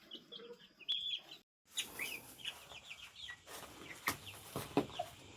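Chickens making soft, short chirps and clucks, faint throughout, broken by a brief dropout about one and a half seconds in.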